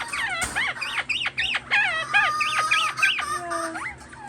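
Several pet birds calling at once in a rapid, overlapping run of squawks and chirps that thins out near the end.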